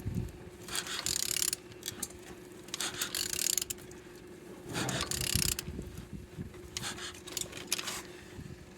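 The crankshaft of a Hyundai-Kia G4ED four-cylinder engine being turned over by hand with a ratchet wrench: about five separate strokes of ratcheting and rasping, each a fraction of a second to a second long. The engine turns freely and is not seized.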